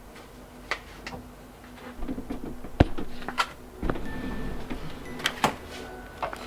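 Several irregular sharp clicks and knocks of objects being handled, the loudest a single knock a little before the middle, over a faint steady hum.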